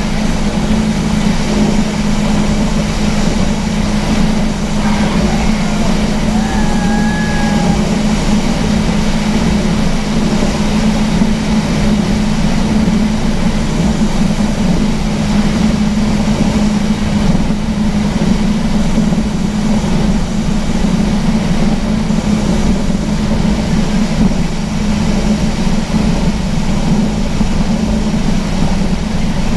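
Speedboat engine running steadily at speed, a loud, even drone that holds its pitch throughout.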